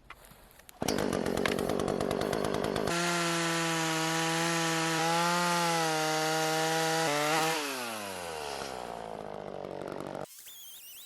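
Two-stroke chainsaw cutting through wood with a rough, rapid buzz. Then it runs clear of the cut at high revs with a steady tone. About seven and a half seconds in it is shut off, and the engine winds down with a falling pitch before it goes quiet.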